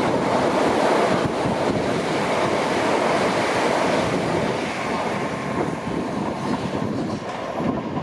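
Electrostar electric multiple-unit train running along the rails through the station, its wheel and track noise loud at first and slowly fading as it draws away.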